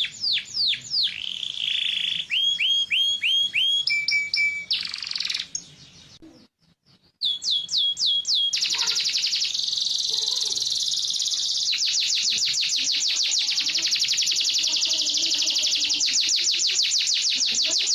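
Canary singing: a run of quick falling whistled notes and short repeated phrases, a brief break about six seconds in, then a long, fast trill of rapidly repeated notes.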